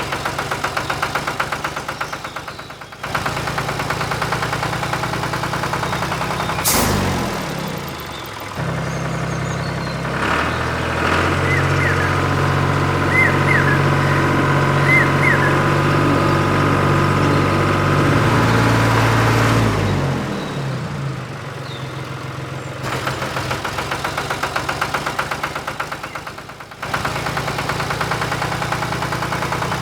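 An engine-like motor sound running steadily, settling into a lower, heavier pitch after a glide about seven seconds in and dropping back near twenty seconds, with several abrupt changes that sound like cuts between clips.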